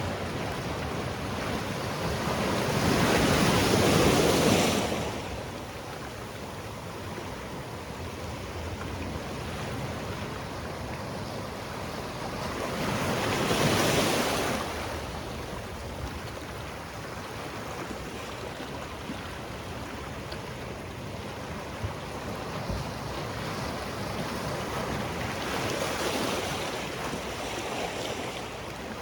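Sea waves breaking on a rocky shore, with three louder surges that build and fall back, the strongest a few seconds in and another about halfway through, over a steady wash of water.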